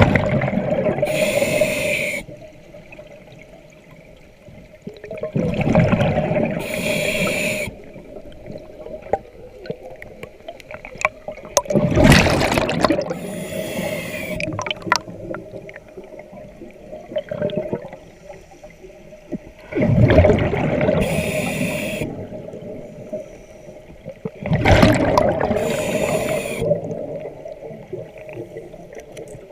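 Scuba diver breathing through a regulator underwater: a hissing inhale followed by a rush of exhaled bubbles, about five breaths, roughly one every six seconds, with a faint steady hum between them.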